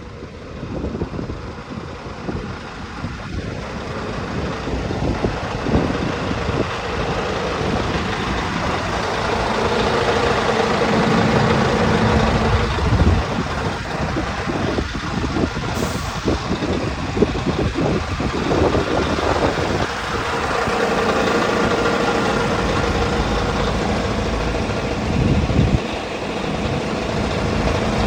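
Scania R420 truck's diesel engine running, getting louder over the first ten seconds or so and then holding steady.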